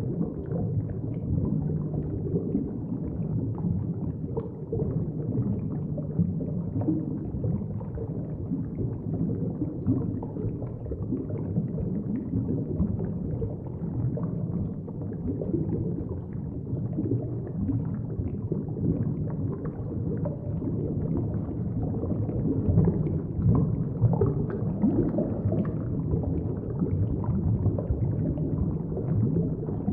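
Low, steady rumbling water noise of a large aquarium tank, with faint gurgling.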